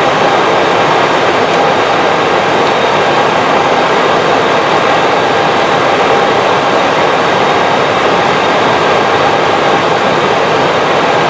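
Steady rushing cockpit noise on an Airbus A320 flight deck in flight: airflow and running systems making an even, unbroken roar with a faint steady hum in it.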